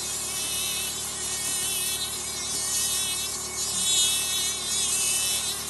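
Podiatry nail drill with water spray running steadily, a high whine that wavers slightly in pitch as the bit works the nail.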